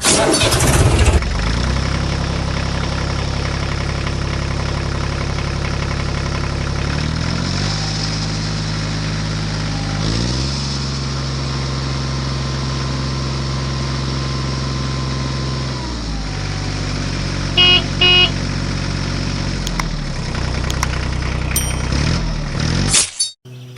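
A vehicle engine runs steadily, its pitch stepping up and down several times as it revs and eases off. Two short horn honks sound about eighteen seconds in.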